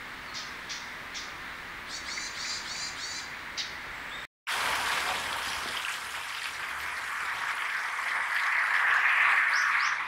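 Small birds chirping in short high calls over a steady hiss, with a quick run of chirps about two seconds in. The sound cuts out for a moment just after four seconds and comes back with a louder hiss that swells toward the end, where a few rising chirps are heard.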